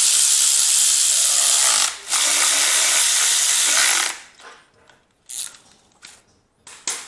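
Power ratchet running in two long bursts of about two seconds each, with a short break near two seconds in, driving fasteners during engine reassembly; then a few short separate clicks and knocks.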